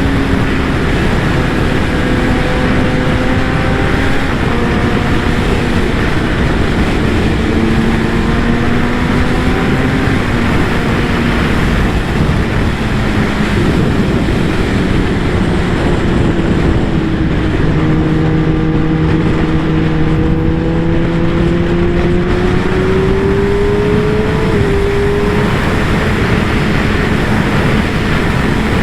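Kawasaki ZX-10R's inline-four engine running while riding, its pitch drifting slowly, climbing through the second half and dropping back about 25 seconds in, under a heavy rush of wind on the microphone.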